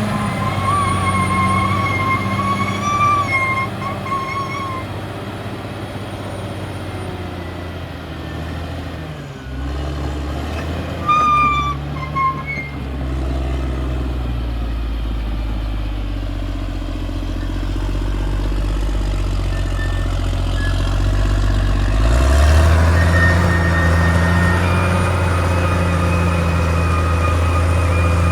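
Caterpillar D6R XL bulldozer's diesel engine running under changing load, its pitch shifting about a third of the way in and again near the end. High squeals come and go near the start and about eleven seconds in.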